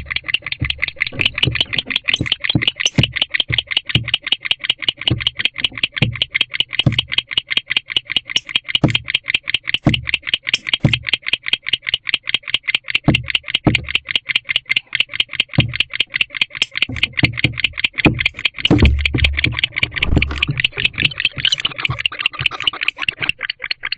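Barn owl giving a long, rapid chittering twitter, a fast unbroken train of high clicking notes typical of a courting barn owl pair. Soft low knocks come and go underneath.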